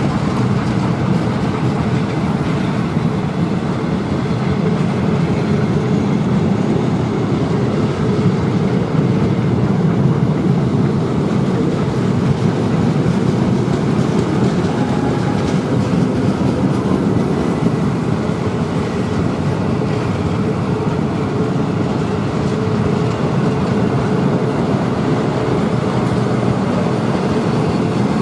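A train rolling past on the track: a loud, steady rumble of wheels on rail.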